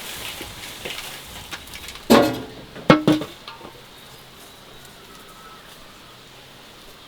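Kitchen utensils and dishes clinking and clattering, with a sharp ringing clink about three seconds in. A short pitched sound comes just before it.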